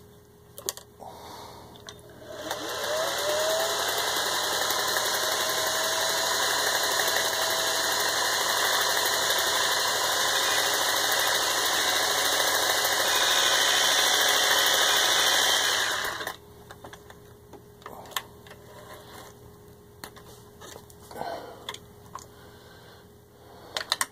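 Vintage Singer 403A zigzag sewing machine stitching fast and steadily for about fourteen seconds, driven by its fashion cam, which here sews the icicle pattern; its motor rises in pitch as it runs up to speed, and it stops suddenly. Before and after come a few light clicks and knocks of handling the machine.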